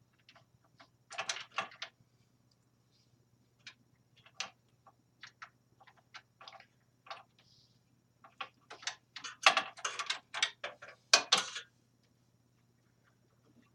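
Clicks, taps and rattles of metal and plastic computer parts being handled and fitted as serial and parallel port connectors go into a computer case, with a busier run of louder clicks from about nine to eleven and a half seconds in. A faint steady low hum lies underneath.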